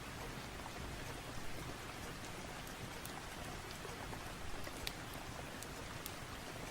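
Steady rain falling, with a few sharp pops scattered through it.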